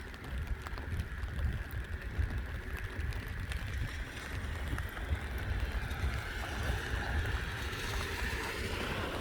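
Wind buffeting the microphone over a steady distant rumble and hiss that swells toward the end.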